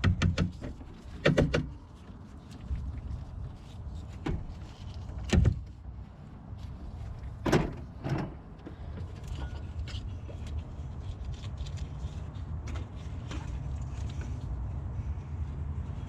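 Scattered knocks and clicks of hands and metal parts being handled in a truck's engine bay as the drive belt is taken off, the loudest about five and a half and seven and a half seconds in, over a steady low rumble.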